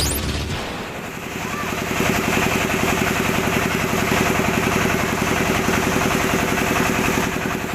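An engine running steadily at idle with a fast, even beat, after a bit of music that ends in the first half second.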